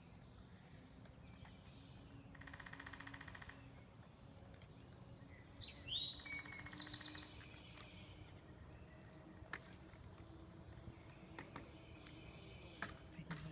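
Songbirds singing against a quiet background: a dry, even trill about two seconds in, then a song phrase of a rising whistle followed by quick repeated notes about six seconds in. A few faint sharp clicks come near the end.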